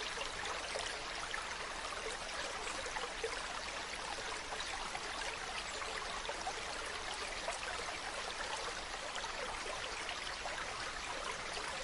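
A mountain stream running steadily over rocks, a continuous rushing and babbling of water.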